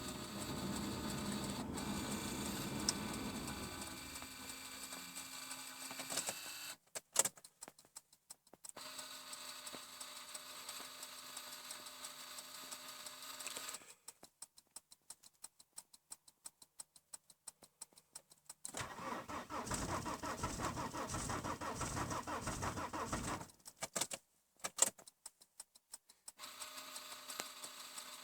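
The cold five-cylinder turbodiesel engine of a 1998 Volvo V70 2.5 TDI being cranked by its starter for a cold start after two nights below −10 °C. There is a louder, rhythmic burst of cranking for a few seconds in the second half.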